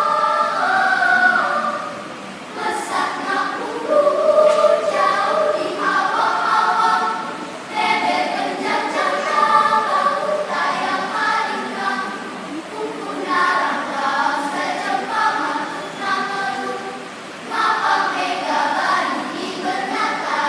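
Elementary school children's choir singing in phrases of about five seconds, with short breaths between them.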